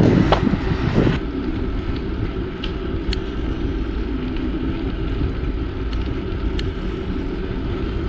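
Steady rush of wind and tyre rumble from a bicycle ridden along a trail, with a few faint clicks.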